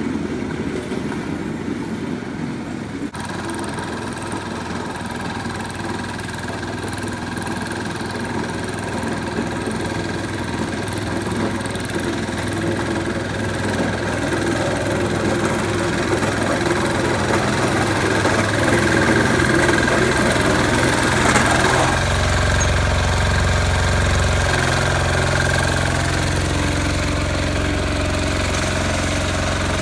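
Diesel engine of a Sears 8XL running steadily, with a deeper low rumble coming in about two-thirds of the way through.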